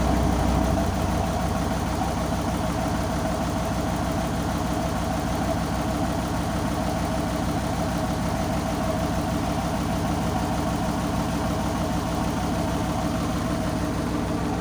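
Tow boat's engine running steadily at low revs, its lowest notes easing slightly about a second in.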